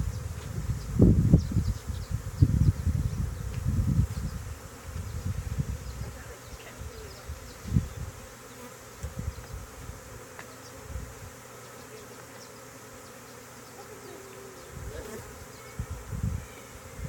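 Honey bee swarm buzzing around a nuc box as the bees move into it. Loud low rumbling thumps fill the first few seconds, then the buzzing carries on more evenly.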